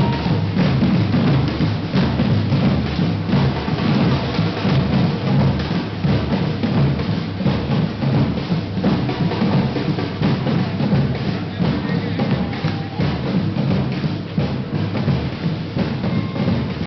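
A group of street drums (timbals) playing together in a steady, dense rhythm, with deep bass-drum beats under rapid snare strokes.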